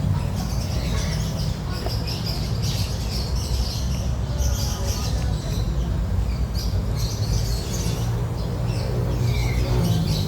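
Many birds chirping with short, high, overlapping calls and a few short sliding notes, over a steady low rumble.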